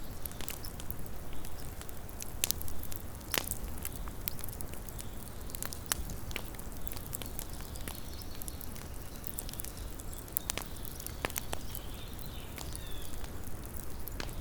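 Small campfire crackling: irregular sharp pops and snaps of burning wood, some louder than others, over a low rumble.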